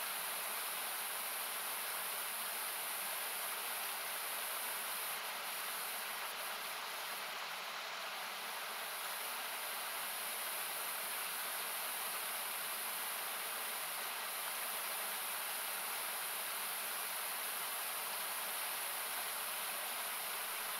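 Steady rushing of a nearby river, its noise thinned by equalisation so it sounds like hiss. A few faint crackles from a wood campfire come about five to eight seconds in.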